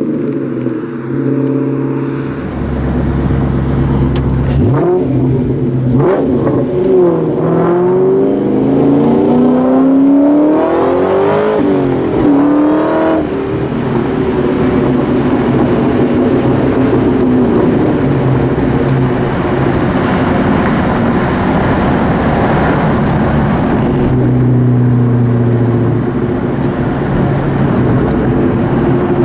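2004 Mustang SVT Cobra's supercharged 4.6-litre V8 exhaust, through Borla Stinger mufflers and an off-road X-pipe, idling and then revved several times, the pitch rising and falling with each rev. It then runs on with a steady, loud exhaust note, dropping back briefly toward idle near the end.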